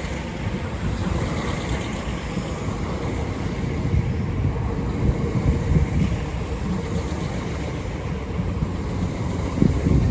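Class 465 Networker electric multiple unit running into the platform: a steady low rumble of the train passing.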